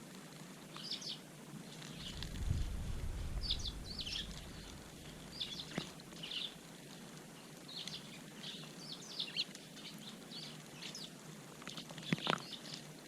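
Eurasian tree sparrows chirping, many short chirps in quick, irregular succession. A low rumble comes in about two seconds in and fades over a few seconds. Two sharp ticks cut through, one near the middle and a louder one near the end.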